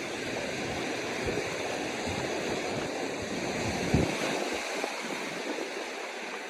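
Ocean surf washing on the atoll shore, a steady rush mixed with wind, with a brief low thump about four seconds in.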